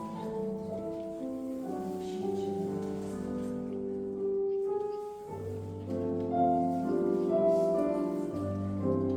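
Classical piano music played as ballet-class accompaniment: slow, held chords that change about once a second, with a short dip in the music about five seconds in.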